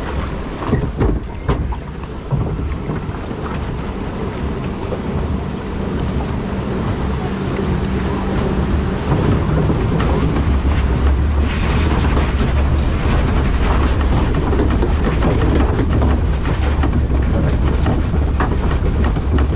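Wild River water ride in motion: a steady low mechanical hum and rumble with a few knocks in the first couple of seconds, getting louder from about nine seconds in.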